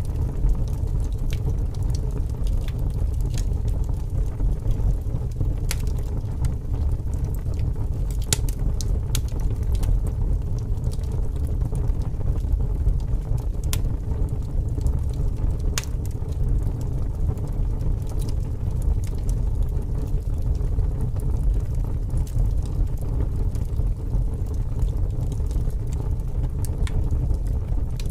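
Wood fire burning with scattered sharp crackles and pops, under steady, strong wind that fills the low end with a constant rumble.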